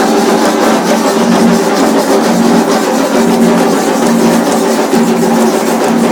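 Loud drumming music, many rapid drum strokes over steady held tones at two pitches.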